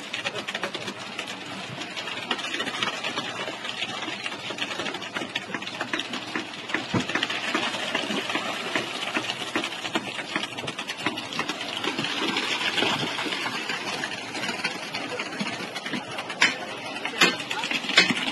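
Tractor-driven transit mixer running: the engine runs steadily under a fast, dense mechanical clatter, with a few sharp knocks near the end.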